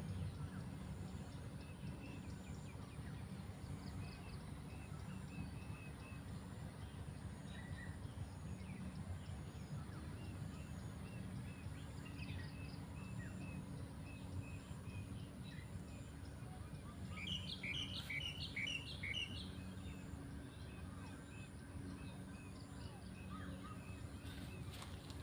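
Small birds chirping on and off over a steady low rumble, with a quick run of louder, repeated chirps about two-thirds of the way through.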